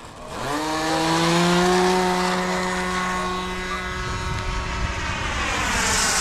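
Electric RC model airplane's motor and propeller throttling up for takeoff: a whine that climbs quickly in pitch about half a second in and then holds steady. Near the end its pitch dips briefly, then rises again.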